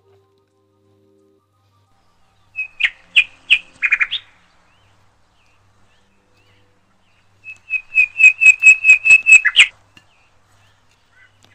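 A bird chirping: a short cluster of sharp, high chirps, then later a fast run of about ten even notes at one pitch.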